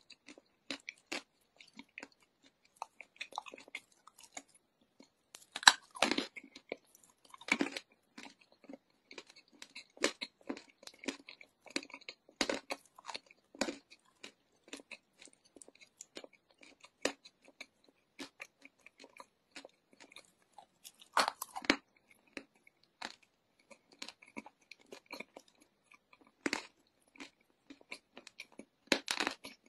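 Close-up chewing and crunching of chunks of eating chalk: a steady run of small crackles, with several louder crunches.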